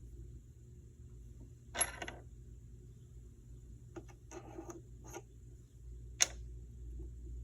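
Light metal clinks and scrapes of hand tools working a new leather seal down over the shaft of a 1960 Impala power-steering cylinder: a ringing clink about two seconds in, a few short rattling scrapes around four to five seconds, and a sharp click, the loudest, near the end. A low steady hum runs underneath.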